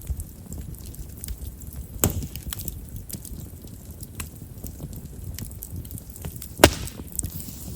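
Chestnut firewood burning in a bonfire: scattered small crackles over a low rumble of flame, with two sharp pops, one about two seconds in and a louder one near the end. Chestnut wood has large pores and is known for popping as it burns.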